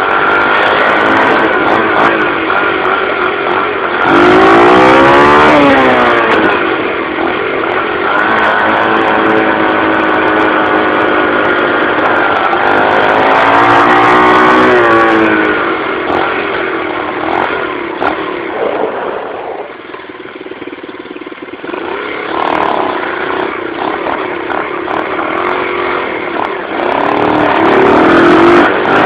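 Dirt bike engine ridden hard on a trail, its pitch repeatedly climbing under throttle and dropping as it changes gear or backs off, easing off briefly about two-thirds of the way through before picking up again.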